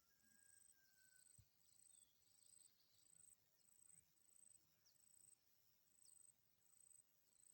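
Faint, steady chirping of an insect, cricket-like, in high-pitched pulses about one every two-thirds of a second, with a faint long whistle in the first second or so.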